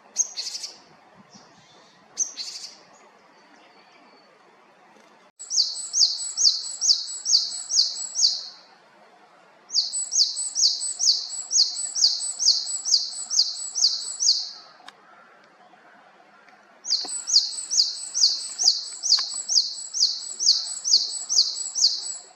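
Japanese tit (Korean great tit) calling: two short calls, then three long runs of quickly repeated high notes, each note sliding down, about three a second.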